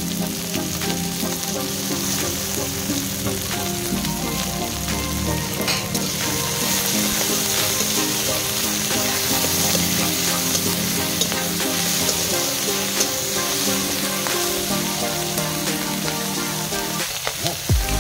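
Chopped onion, tomato, green chillies and garlic sizzling steadily in hot oil in a kadai, stirred with a spatula that scrapes across the pan.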